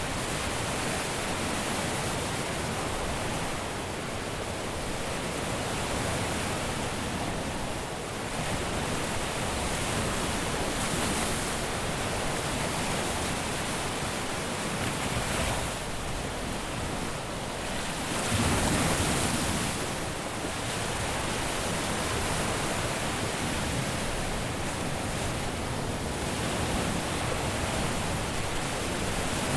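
Caribbean surf washing onto a beach: a steady rush of waves, swelling and falling back every few seconds, with one louder wave breaking about two-thirds of the way through.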